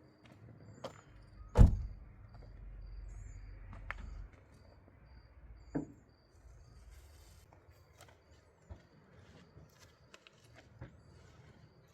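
A loud thump about a second and a half in, followed by a low rumble lasting a couple of seconds and a few lighter knocks. A faint high chirp repeats about twice a second throughout.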